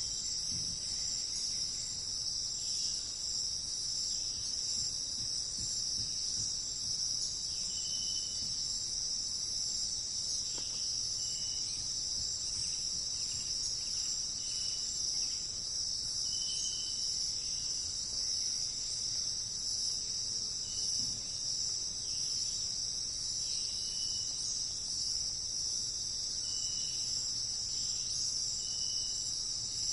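Steady high-pitched insect chorus, unbroken throughout. Short high notes recur every couple of seconds over it.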